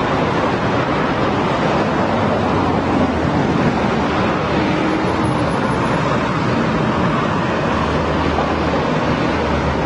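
Continuous road traffic noise: a steady wash of passing cars with a low engine hum that swells and fades.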